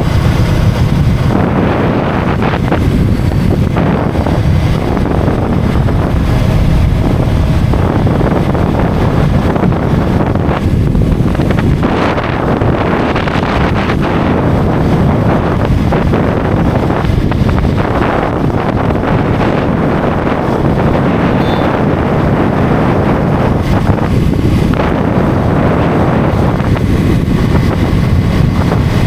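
Heavy wind buffeting the microphone of a motorcycle riding at highway speed, with engine and road noise underneath; steady and loud, with uneven swells as the wind gusts.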